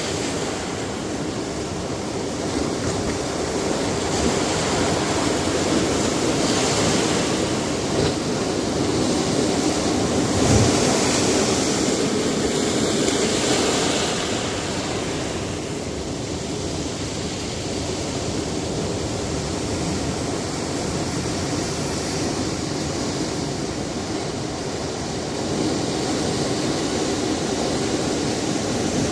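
Sea surf washing against a rocky shore: a continuous rushing of waves that swells louder from about four to fourteen seconds in, then eases.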